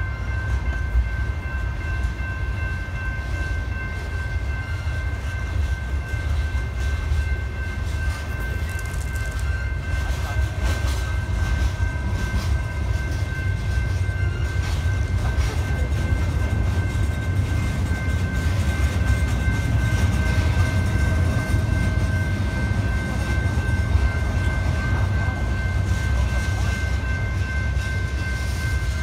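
Freight train passing close by: the steady low rumble of covered hoppers, tank cars and flatcars rolling on the rails, with a faint steady high whine over it throughout.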